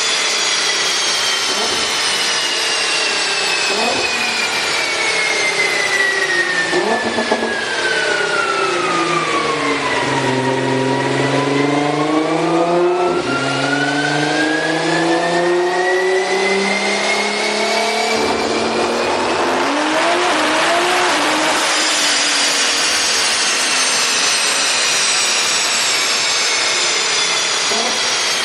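High-revving supercar engine and exhaust, loud throughout. Its pitch sinks steadily for about ten seconds, then climbs again and holds at a high pitch near the end.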